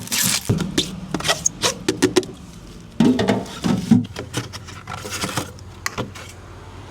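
Irregular clicks, knocks and rustling, with a faint steady low hum underneath.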